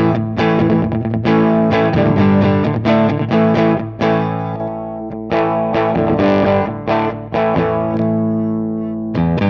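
Electric guitar, a Fender Stratocaster, played through a Line 6 Helix amp-and-cab model with a distorted tone. It plays a run of short strummed chords, then chords left ringing.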